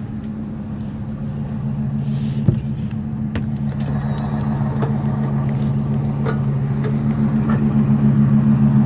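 2002 Fleetwood Storm motorhome engine idling steadily with an even, pulsing hum, growing louder throughout. A couple of light knocks about two and a half and three and a half seconds in.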